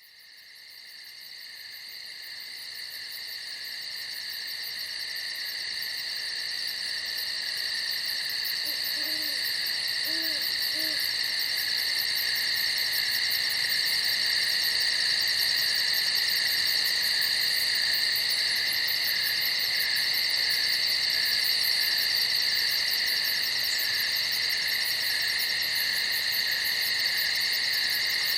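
Night chorus of crickets chirping in a dense steady trill, fading in over the first ten seconds or so and then holding steady. A few faint low hoots come briefly about nine to eleven seconds in.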